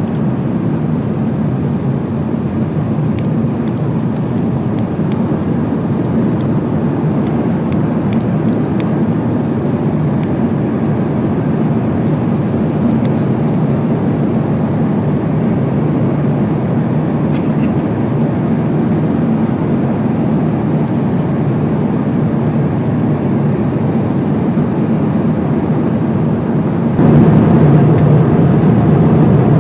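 Steady low roar of airflow and engines inside the cabin of an Airbus A350-900 in cruise, with a few faint ticks; the noise steps up a little louder near the end.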